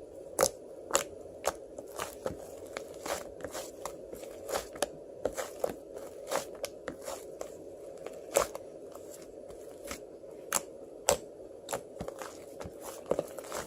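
Bead ice cream's frozen pellets crunching and crackling, with irregular sharp clicks every fraction of a second to a second, over a steady low hum.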